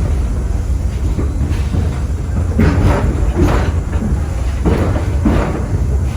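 Passenger train car riding slowly on the rails: a steady low rumble with a few clunks and rattles of the car in the second half.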